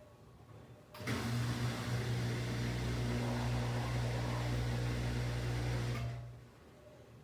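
Washing machine motor running in one burst of about five seconds: a steady hum with a hiss over it, starting abruptly about a second in and winding down about six seconds in.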